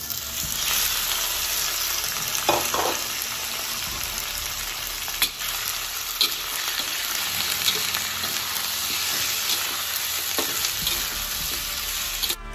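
Chicken pieces sizzling in hot oil in a wok, the sizzle picking up just after the chicken goes in. A metal spatula stirs them, clinking and scraping against the pan a handful of times.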